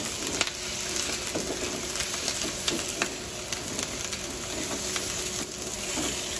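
Pork pieces sizzling in hot oil in a nonstick frying pan as they are stirred with a spatula, with scrapes and light knocks of the spatula against the pan through the steady sizzle.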